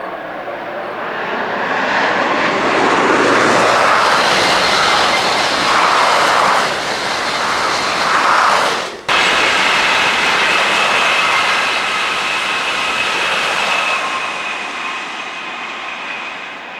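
TGV high-speed train passing at full speed: a loud rushing noise that builds over the first few seconds, cuts off abruptly about nine seconds in, then resumes with a steady high whine and slowly fades.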